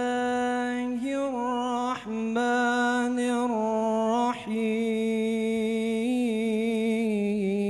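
A man reciting the Qur'an in a melodic, sung style, holding long ornamented notes that waver gently in pitch. He breaks for short breaths about two seconds and four and a half seconds in.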